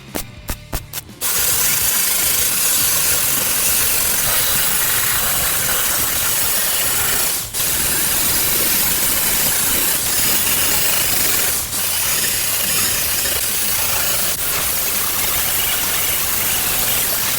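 MIG welding sheet-steel floor-pan repair sections: a quick run of short tack bursts, then a loud, steady hiss of continuous welding, broken by three brief pauses.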